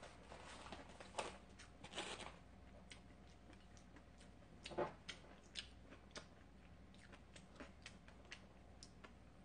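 Faint chewing of a mouthful of octopus and rice: irregular soft wet clicks and short smacks from the mouth, with a slightly louder smack a little before the middle.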